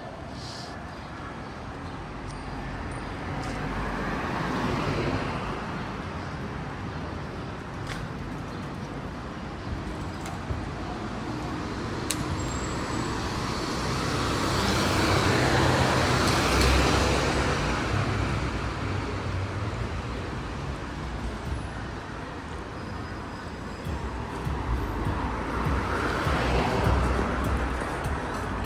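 City street traffic: vehicles passing one after another, each swelling and fading, the loudest pass about halfway through.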